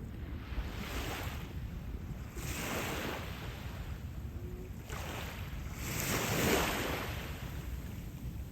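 Small waves washing up on the beach in three swells, the loudest about six and a half seconds in, over a steady low rumble of wind on the microphone.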